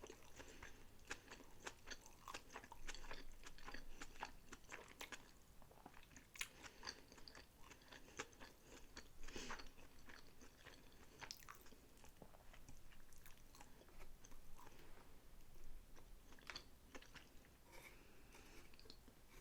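Close-miked mouth sounds of chewing and biting sushi rolls: a continuous run of short, moist smacks and clicks.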